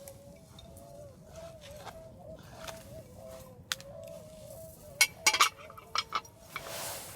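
A flock of swans calling, many overlapping honking calls. A few sharp clicks or knocks sound about five and six seconds in, louder than the calls.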